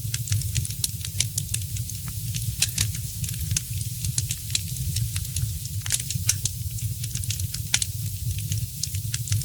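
Wood fire in a fireplace crackling, with many quick irregular pops and snaps over a steady low rumble of the burning fire. A few pops stand out louder, around three and six seconds in.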